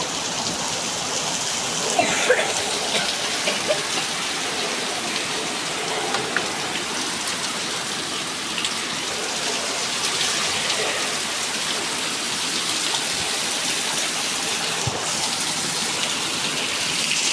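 Steady rain falling, an even hiss of many drops, with a few louder single drops standing out now and then.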